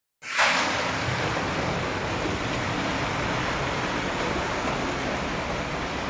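Steady rain falling, a dense even hiss that starts suddenly a fraction of a second in and holds without a break.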